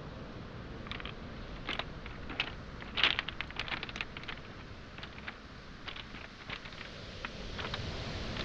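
Footsteps on a beach of pebbles and small boulders, the stones clicking and knocking together underfoot in a scatter of sharp clicks that is thickest about three seconds in. A steady wash of waves on the shoreline runs underneath.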